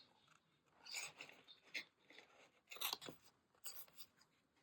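Faint rustling and crinkling of paper being handled, in a few short bursts about a second apart.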